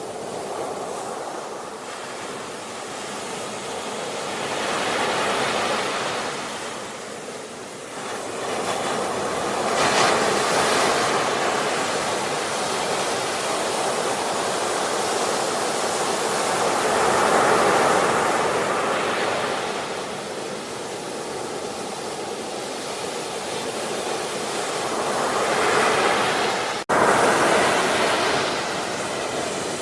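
Ocean waves washing onto the shore, the surf swelling and receding every several seconds, with a sudden brief break in the sound near the end.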